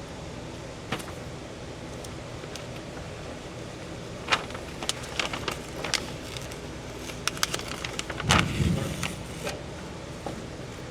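Scattered sharp clicks and light knocks over a steady background hiss, with a heavier dull thump about eight seconds in.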